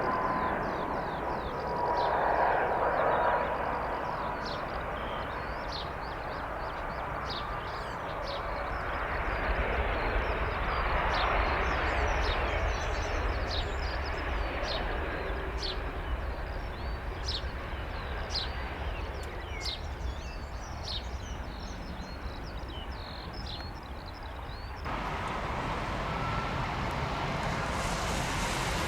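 Distant jet airliner engines rumbling, the noise swelling and easing, with many short, sharp bird calls from a large flock sounding over it. About 25 s in the calls stop abruptly and only a steadier engine rumble is left.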